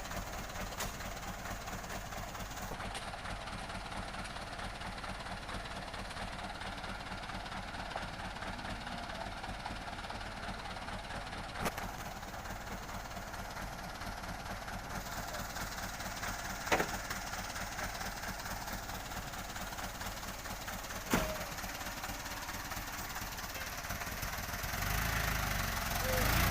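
Loaded truck's engine running steadily at low revs, with a few sharp knocks, getting louder near the end.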